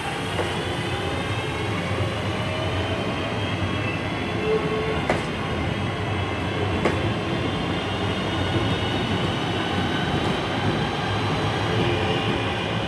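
Class 323 electric multiple unit pulling away, its traction whine rising slowly in pitch as it accelerates over a steady running rumble. There are two light clicks about halfway through.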